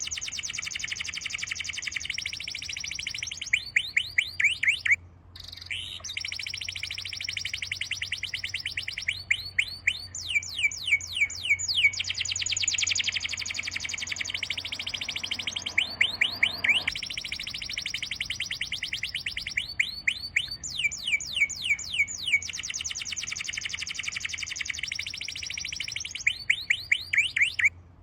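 Songbirds singing in fast, unbroken trills of rapid high chirps, with a brief drop-out about five seconds in.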